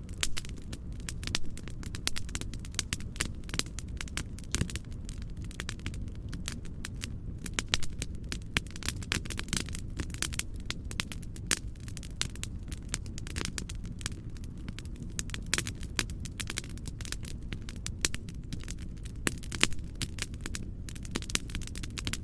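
Wood fire in a fireplace crackling, with dense sharp pops and snaps over a steady low rumble of flame and added soft noise.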